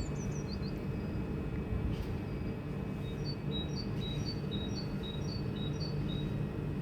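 Steady low hum from a pair of Class 387 electric multiple units as they pull away from the platform. A small bird chirps overhead in a quick run of short notes, about two a second, in the middle of the stretch.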